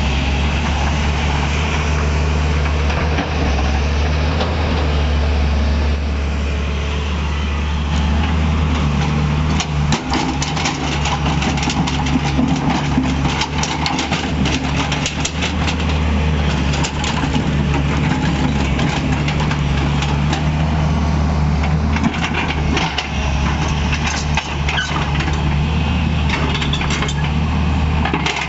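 Tata Hitachi EX200LC Super hydraulic excavator's diesel engine running steadily. Bursts of sharp clattering knocks come about a third of the way in and again near the end.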